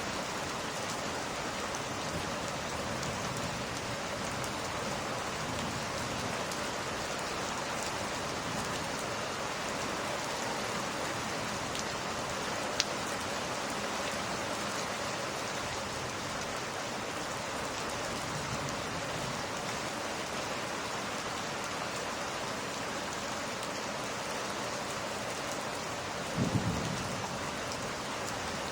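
Steady rain falling, an even hiss, with one sharp click about halfway through and a brief low rumble of thunder near the end.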